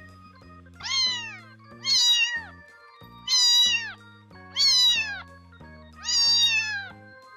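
A cat meowing five times, about a second apart, each meow high-pitched and falling in pitch. Soft background music plays underneath.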